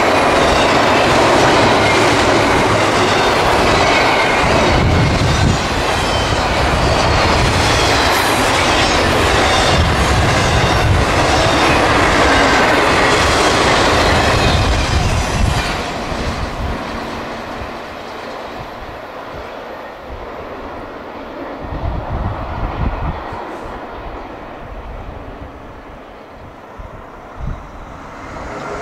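CSX double-stack intermodal freight train passing close by: steady rolling noise of the wheels on the rails. About halfway through the noise drops off and stays lower as the train draws away.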